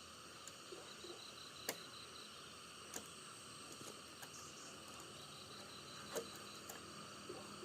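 Faint outdoor insect chorus with a steady high-pitched drone. A pulsed trill comes about a second in and again about five seconds in, with a few sharp clicks or taps in between.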